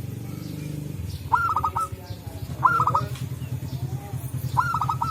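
Zebra dove (perkutut) calling: three short phrases, each a quick run of about four notes, about a second in, near the middle and near the end. A low rapid pulsing runs steadily underneath.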